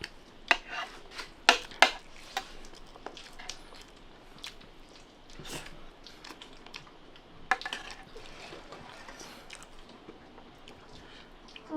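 Eating sounds at a meal of rice and curry: wet chewing and a scatter of sharp clicks and knocks, about five of them spread irregularly.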